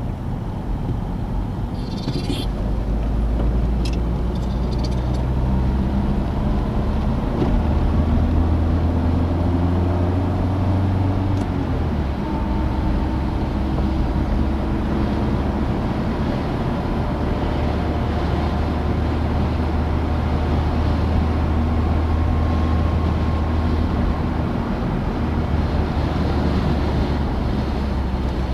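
Citroen DS four-cylinder engine pulling the car along, its note rising as it accelerates, dropping about twelve seconds in at a gear change, then running steadily at cruise with road noise. A few sharp clicks near the start.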